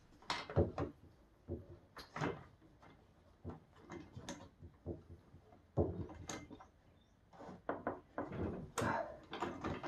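Scattered light clicks, knocks and rattles of hand tools and small metal parts being handled, with short pauses between them.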